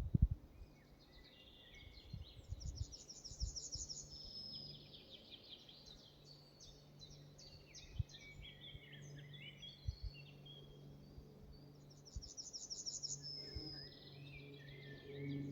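Forest ambience of songbirds singing. One bird gives a song that opens with a fast, high trill and falls to lower notes, about two seconds in and again near the end, with other chirps between, over a faint low steady hum.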